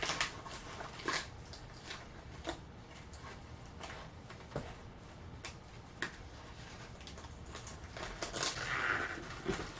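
Scattered faint clicks and scrapes of a tool being worked under the edge of a fiberglass part to pry it free of its mold, a few sharp ticks every second or two.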